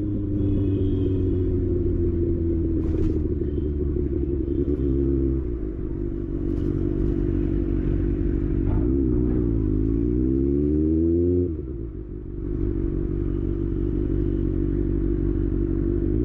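Kawasaki ZX6R inline-four engine running. Its pitch sags slowly, then climbs steeply as it revs from about nine to eleven seconds in, and the sound falls off briefly before settling back to a steady run.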